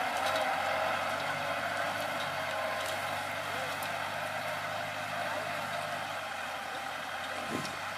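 Kubota L4708 tractor's diesel engine running steadily, getting gradually a little quieter.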